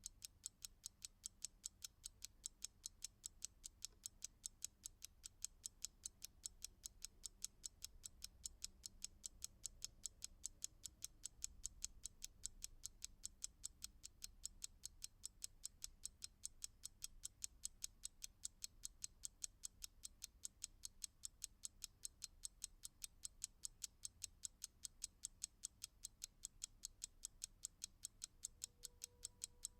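A clock ticking steadily: crisp, evenly spaced ticks, several a second, with no change in pace.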